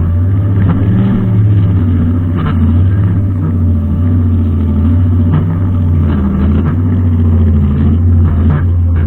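Brushcutter engine running steadily, its pitch wavering slightly, with occasional short clicks.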